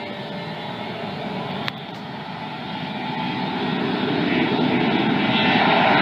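Jet airliner engines running and growing steadily louder as the aircraft comes closer, with one short click a little under two seconds in.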